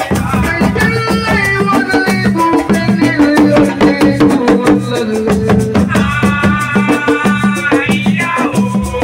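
Assiko band music: dense, fast drumming and shaker-like percussion under melodic lines.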